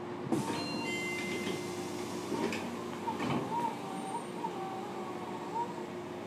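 Interior running sound of a Fukuoka City Subway 1000N-series electric train car: a steady hum with a wavering whine above it and a few clunks.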